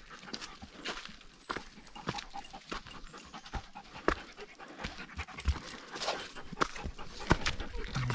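A dog panting hard on a steep uphill hike, with irregular knocks and steps on rock.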